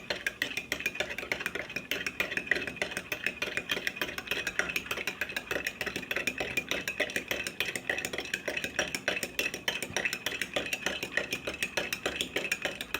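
A spoon stirring hot water in a cup, clinking rapidly and steadily against the sides: powdered milk being dissolved in just-boiled water.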